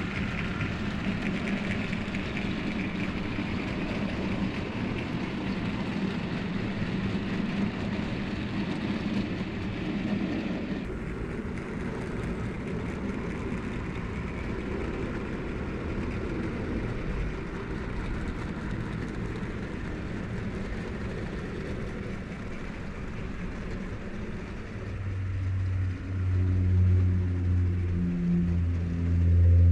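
OO-gauge model train running on the layout, a steady mechanical whirr and rolling wheel noise that changes abruptly about eleven seconds in. Near the end a louder, steady low droning hum comes in.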